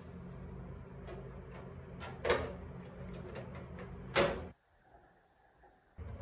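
Two sharp clunks, like parts or a lid being handled, over a steady low hum, with a few faint ticks; the sound drops nearly to silence for a moment near the end.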